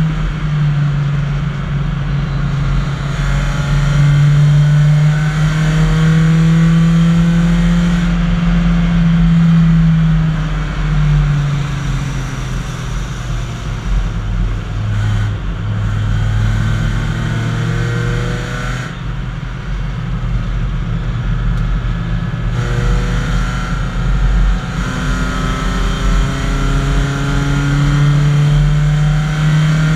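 BMW 318i race car's four-cylinder engine heard from inside the cabin, running hard on track. The revs sit high, drop about a third of the way in, and climb again near the end, with repeated rising whines as it accelerates.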